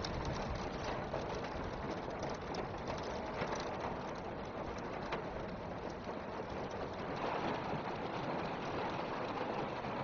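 Heavy rain pelting a car's windshield and roof, heard from inside the car as a steady hiss with scattered faint taps.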